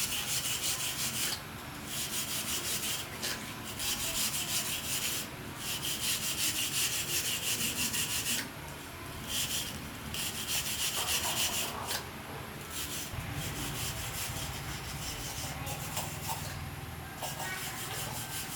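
Hand sanding or scrubbing of a part, abrasive rubbing in runs of one to three seconds with short pauses between.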